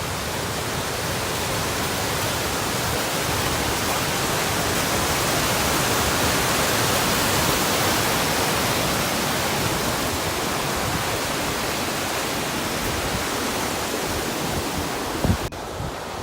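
Steady rushing wind, an even hiss that swells slightly toward the middle and cuts off suddenly near the end.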